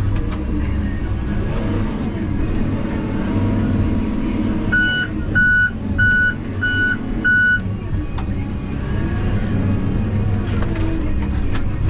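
Engine of heavy logging equipment running steadily, with a backup alarm beeping five times about halfway through as a machine reverses.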